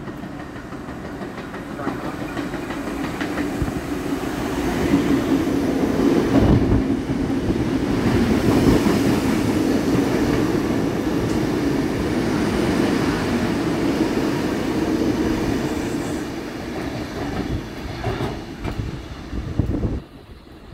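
Sydney Trains K-set double-deck electric multiple unit running through a station without stopping: the rumble of steel wheels on rail grows as it approaches, holds loud with clicks over the rail joints as the carriages pass close by, then fades and falls away sharply near the end.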